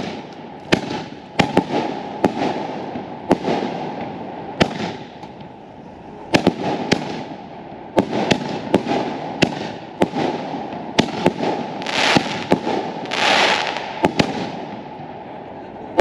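Consumer fireworks going off: a string of sharp bangs and pops at irregular intervals, with longer hissing, crackling bursts about twelve to fourteen seconds in.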